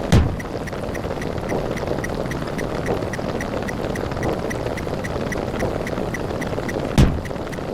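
A dense, steady din of layered cartoon and meme sound effects, with faint rapid ticks about four or five a second and two heavy low booms, one at the start and one about seven seconds in.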